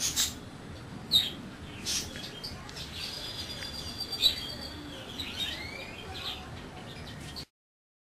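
Small birds chirping outdoors, with several short sharp notes, a held high whistle and a few curved, gliding calls. The sound cuts off abruptly near the end.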